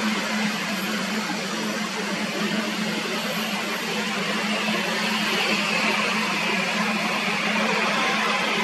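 Jet airliner engines running, a steady rushing noise over a constant low hum, growing a little brighter about halfway through.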